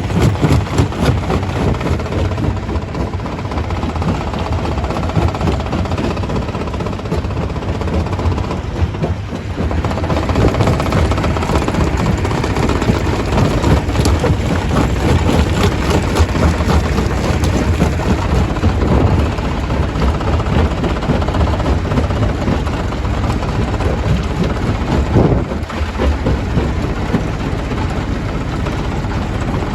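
Stone crusher running: a heavy, steady machine rumble with continual rattling and knocking as rock is crushed.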